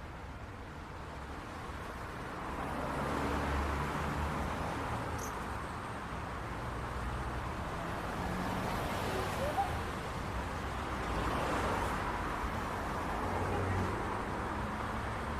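City street traffic: a steady wash of tyre and engine noise from passing cars, swelling as vehicles go by several times, with low engine rumble underneath.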